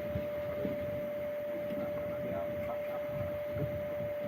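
A steady, single-pitched electrical-sounding hum, holding one tone throughout.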